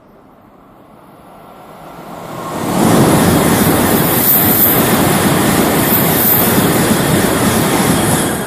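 Tokaido Shinkansen train passing through the station at high speed without stopping. A rising rush of air and rail noise builds for about two seconds, stays loud and steady for about five seconds as the train goes by, then drops off sharply near the end.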